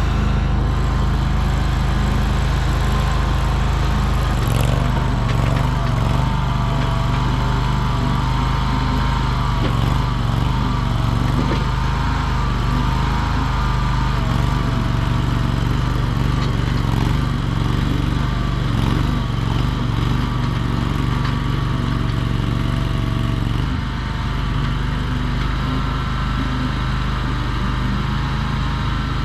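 Mini skid steer's small engine running steadily, with a wavering whine above the engine note. The engine note strengthens about four seconds in.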